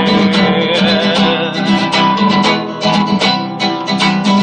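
Acoustic guitar strummed in a quick, steady rhythm, playing a song's accompaniment.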